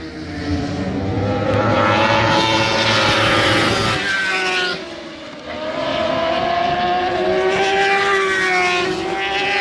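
Racing superbike engines at high revs, the pitch climbing, dipping sharply about five seconds in, then climbing again.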